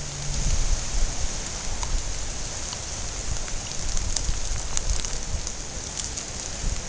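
Rain falling steadily, with scattered sharp ticks of single drops and an uneven low rumble underneath.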